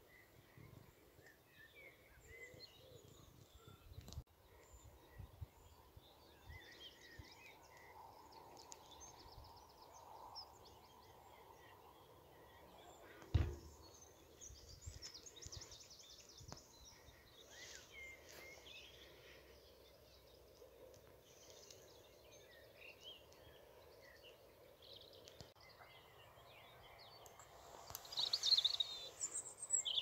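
Faint birdsong from several small birds, scattered chirps and phrases over a low rumble. A single thump comes about halfway through, and a louder burst of song near the end.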